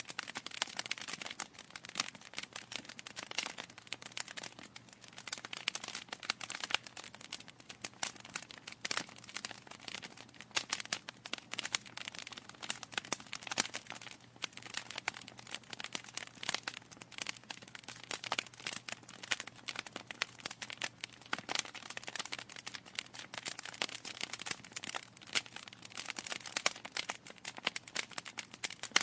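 Wood fire burning in a fireplace, logs crackling with dense, irregular pops and snaps over a faint hiss.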